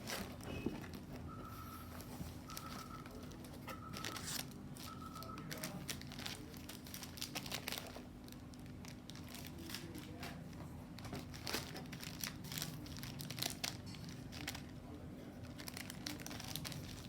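Packaging being unwrapped by hand: irregular crinkling and rustling of plastic and paper wrapping, with some tearing. Four short even beeps sound in the first few seconds, over a faint steady hum.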